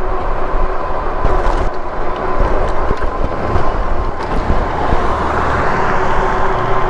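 Wind buffeting the microphone and road noise while riding a Lectric e-bike along a road shoulder, with a steady thin whine running through.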